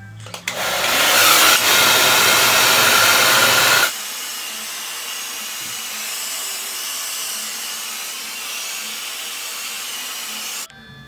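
Handheld hair dryer blowing, a loud steady rush of air. About four seconds in it drops suddenly to a quieter, thinner hiss, which cuts off near the end.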